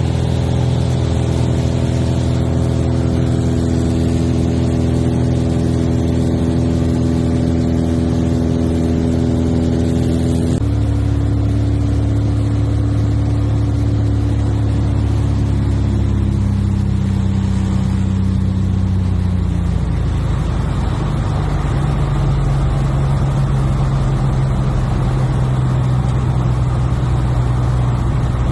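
Cessna 177RG Cardinal's four-cylinder Lycoming engine and propeller droning steadily in flight. The pitch drops suddenly about ten seconds in and settles lower again partway through.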